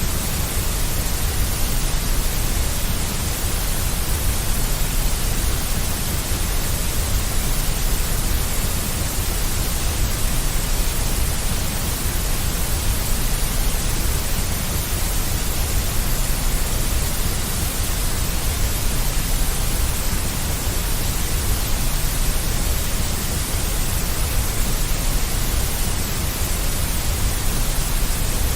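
Deep white noise: a steady, unchanging hiss with a strong low rumble beneath it.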